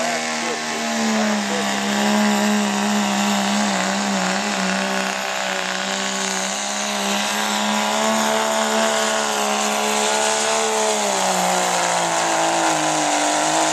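Diesel pickup truck's engine running hard at high, steady revs under heavy load as it drags a pulling sled, with a thick noisy rush over the engine note; the pitch sags slightly a couple of times, most noticeably near the end.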